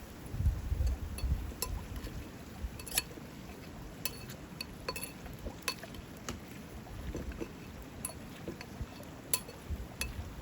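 Light clinks and taps of cooking gear, a dozen or so separate sharp strikes spread irregularly over several seconds, over a low rumble that is heaviest in the first second and a half.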